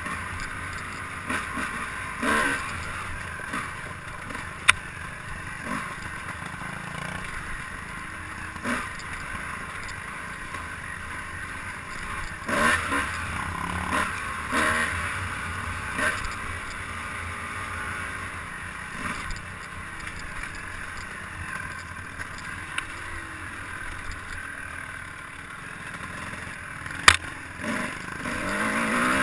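Steady running noise of a vehicle ride over rough ground, with scattered clatters and two sharp knocks, one about five seconds in and a louder one near the end.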